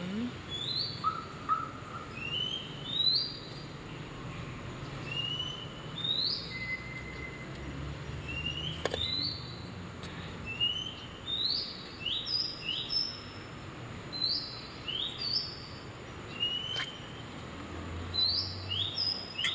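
A bird chirping over and over: short rising notes, one every second or so at uneven gaps, over a faint low hum.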